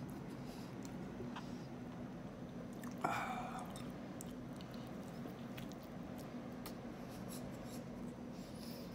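A person chewing a mouthful of BLT sandwich, with soft wet mouth clicks over a steady low hum. A brief louder noise about three seconds in.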